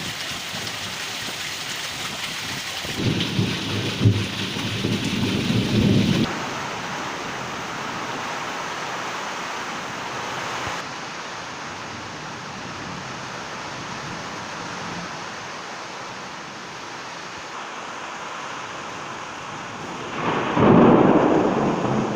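Heavy monsoon rain falling steadily, with low rumbles of thunder: one lasting about three seconds a few seconds in, and a louder one near the end.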